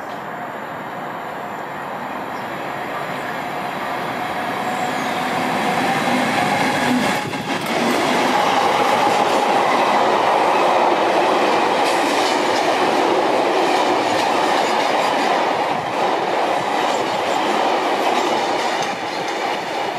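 Freight train of Yeoman aggregate wagons passing through a station: the locomotive's sound builds for several seconds as it approaches, then the wagons go by with a steady loud rush and a rhythmic clickety-clack of wheels on the rails.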